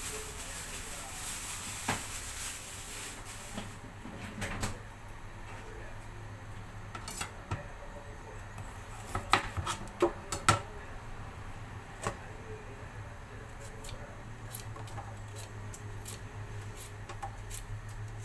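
Pot and utensils clinking now and then in a kitchen, with a cluster of louder clinks about nine to ten seconds in, over a low steady hum.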